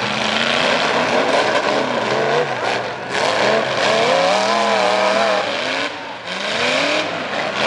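Pickup truck engines with loud exhausts revving under racing load, their pitch rising and falling repeatedly, with a short lull about six seconds in.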